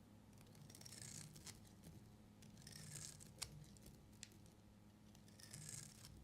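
Faint strokes of a knife cutting through a bar of soap, three soft scraping cuts a couple of seconds apart, with a few sharp clicks in between.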